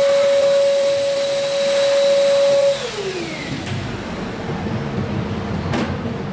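A small electric motor running at a steady high whine, switched off about three seconds in and winding down in pitch. A quieter, uneven low rumble follows.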